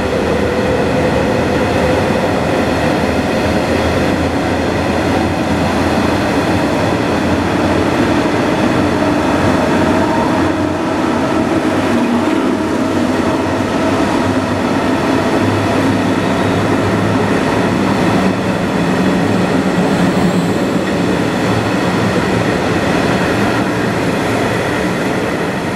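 SJ sleeper train's coaches rolling out of an underground rock-cavern station and away into the tunnel, a steady loud noise of wheels on rail with faint tonal whine. The last coach passes about halfway through.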